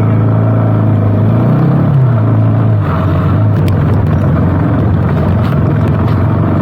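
KTM motorcycle engine running steadily, its pitch rising briefly and falling back about two seconds in.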